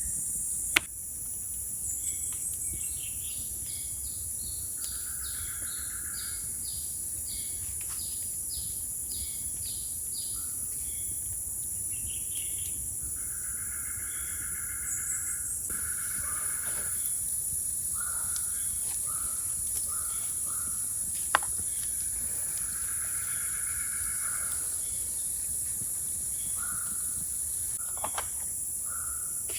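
Forest ambience: a steady high-pitched insect drone with birds calling throughout in runs of short repeated whistled notes. There is a sharp click about a second in and another about twenty-one seconds in.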